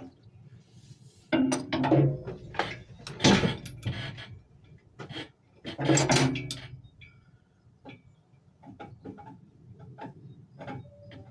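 Irregular knocks, clunks and scrapes of tools and metal parts being handled while an engine is repositioned. The loudest clusters come about two seconds in, about three seconds in, and about six seconds in.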